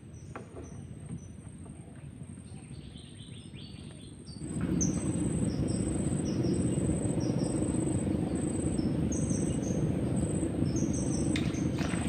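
A bird calling over and over in short, high, falling chirps, with a thin steady high tone behind it. About four seconds in, a louder low rushing noise starts suddenly and carries on.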